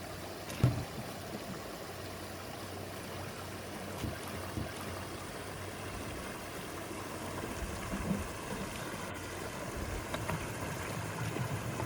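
Shallow rocky creek water flowing steadily, with a few brief low knocks: a sharp one about half a second in and softer ones around four and eight seconds.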